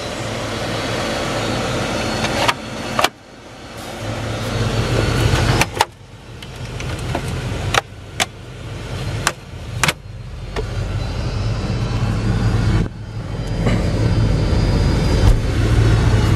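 Chevy Silverado truck cab with the engine idling under repeated power-window motor runs. Each whirr swells for two or three seconds and ends in a sharp clunk as the glass reaches the end of its travel.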